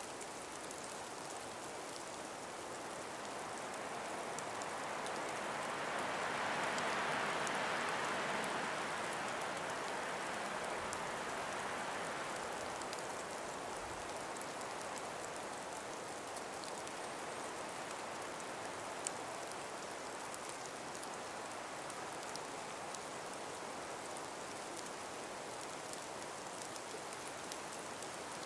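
Calm breeze moving through ice- and snow-laden forest trees: a soft, steady rush that swells in a gust about a quarter of the way through and then settles, with a few faint scattered ticks.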